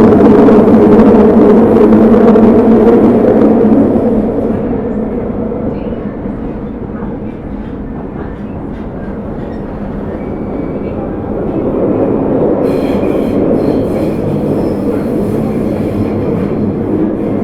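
Running noise of an Osaka Metro 30000 series subway train with Hitachi SiC-VVVF inverter control, heard from inside the car: a loud, steady rumble for the first few seconds, easing off to a quieter run, then building again near the end.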